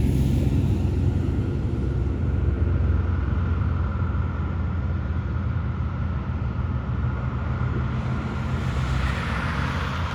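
Heavy truck's diesel engine running, a steady low drone that eases slightly mid-way and builds again near the end.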